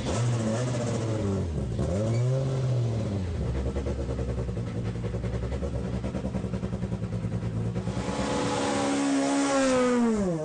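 Rally car engine under hard acceleration: the revs dip and climb again about two seconds in, hold fairly steady, then climb high and fall sharply near the end.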